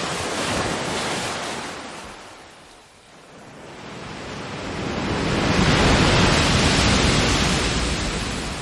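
Ocean waves washing onto a shore: one wave surges and fades out about three seconds in, then a bigger, louder wave builds, peaks past the middle and slowly recedes.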